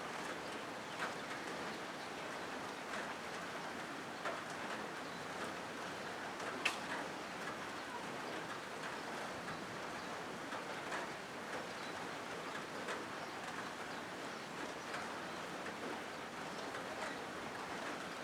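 Rain falling on a corrugated zinc roof: a steady patter with scattered single drop taps, one sharper tap near the middle.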